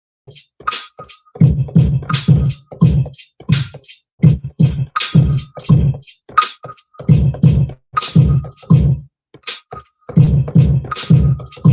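Hip-hop drum pattern played from a Native Instruments Maschine MK3: heavy low kick hits with hi-hat ticks and a short mid-pitched tone, in choppy runs broken by brief silences.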